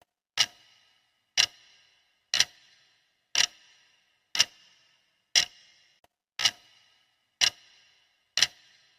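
Clock ticking steadily, one sharp tick per second, each with a short ringing tail.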